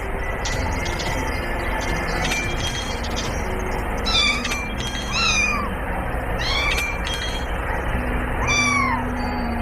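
Cat meowing several times, each meow a short call that rises and then falls in pitch, mostly in the second half, over a steady hiss-like background.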